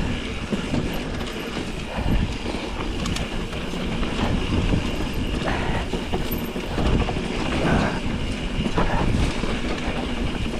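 Mountain bike rolling fast over a rough dirt trail: tyres on dirt and gravel under a steady rush, with the bike rattling and knocking irregularly over bumps.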